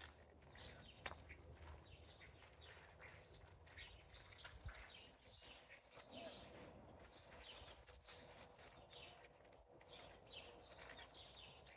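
Faint birds chirping: many short, falling chirps repeated again and again over quiet outdoor background.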